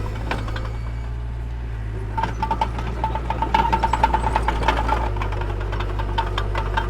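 Mini bulldozer's diesel engine running steadily, with a rapid metallic clatter joining in about two seconds in.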